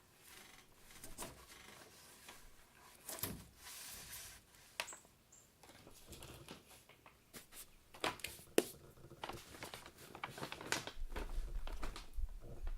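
Irregular clicks, knocks and rustles of things being handled, growing busier toward the end, with a low rumble coming in near the end.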